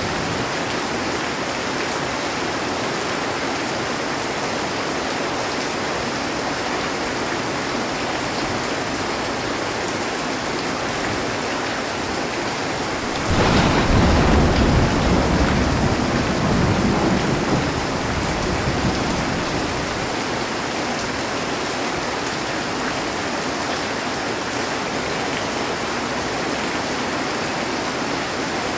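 Heavy rain falling steadily on a metal roof. About halfway through, a loud clap of thunder breaks in and rumbles for about five seconds before fading back into the rain.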